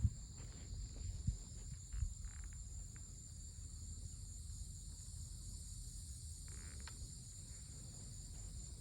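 Insects trilling steadily at evening, faint and high-pitched, with a few soft knocks in the first two seconds.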